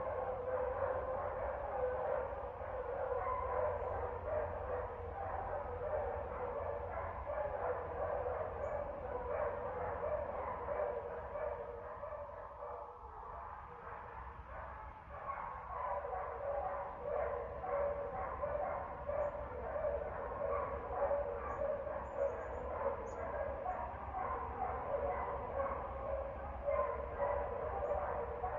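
Dogs barking and yipping in a rapid, continuous string that eases briefly about halfway through, over a steady low hum.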